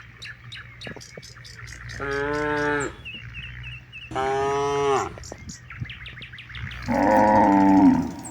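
Cattle mooing: three long moos about two seconds apart, the last one the loudest, with short bird chirps in between.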